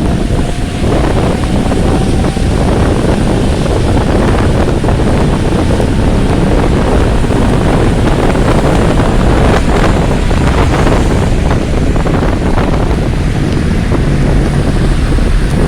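Rain falling steadily, with wind gusting and buffeting the microphone in a continuous low rumble.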